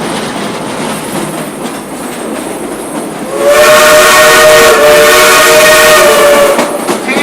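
Steam locomotive #76's whistle sounds one long blast of about three seconds, several notes at once with steam hiss over them. It comes in a little over three seconds in, over the steady running noise of the train.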